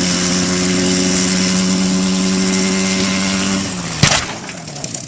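An engine running at one steady pitch, which sags slightly. About four seconds in it is cut off by a single loud crash impact, followed by scattered clattering that dies away.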